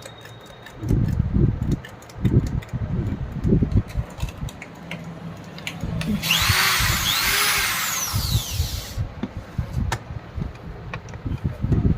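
A small electric power-tool motor runs for about three seconds from about six seconds in, its whine sliding up and down in pitch. Light clicks and low knocks of handling come before and after it.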